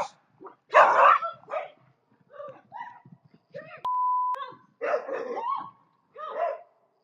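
A dog barking and yelping in a run of loud, irregular barks. A short steady beep sounds about four seconds in.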